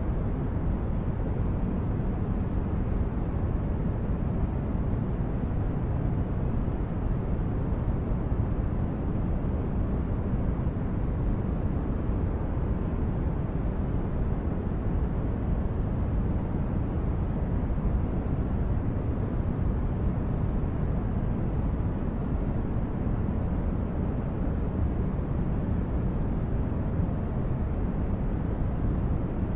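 Synthesized spaceship interior ambience: a steady, deep rumbling noise like brown noise, even and unchanging, with no distinct events.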